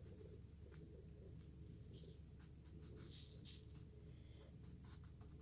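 Faint scratching and rustling of sand being spread and pressed down on the piece, in short irregular strokes over a low steady hum.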